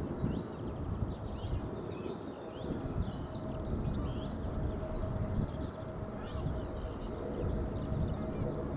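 Outdoor airfield ambience: a steady low rumble with a faint constant whine, and small birds chirping over it.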